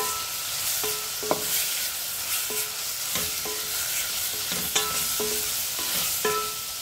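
Chicken pieces sizzling in oil in a stainless steel pot while a wooden spatula stirs them. About ten irregular knocks of the spatula against the pot each ring briefly over the steady sizzle.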